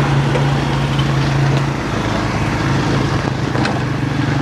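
Quad bike (ATV) engine running steadily under way, a constant engine note over a rough rumble of noise, easing slightly about two seconds in.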